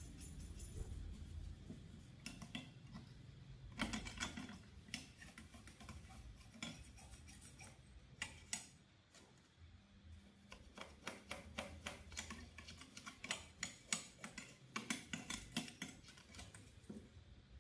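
Small tools and parts clicking and tapping irregularly during hands-on repair work, in clusters of quick light clicks with short pauses between.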